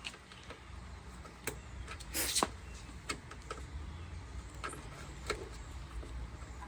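Scattered light clicks and knocks of hand tools and door parts being handled inside a car door panel. The loudest is a short clatter about two seconds in, over a low steady hum.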